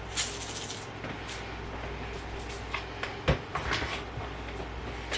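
Everything bagel seasoning shaken from a shaker jar in short, crisp rattling bursts, with a few sharp clicks and one dull knock about three seconds in.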